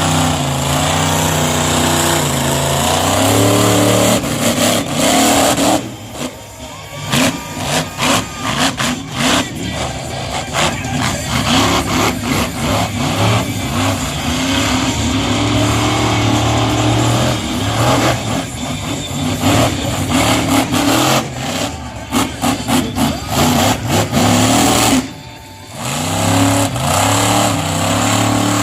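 Monster truck engine revving hard, the throttle opened and shut again and again so that the pitch keeps stepping up and down. It drops away briefly about six seconds in and again near the end.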